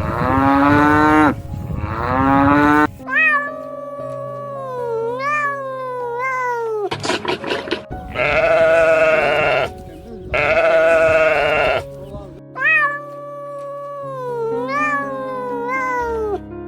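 Farm animals bleating in pairs of long, wavering calls near the start and again in the middle, with sliding calls that rise sharply then fall in between, over background music with steady held notes.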